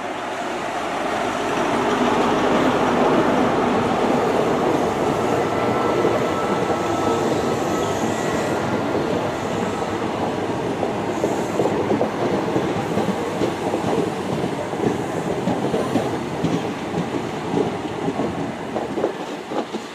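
A GWR High Speed Train led by Class 43 diesel power car 43002 running into the platform. The noise builds over the first two seconds into a steady rumble and clatter of wheels on rail, with a faint thin squeal in the middle.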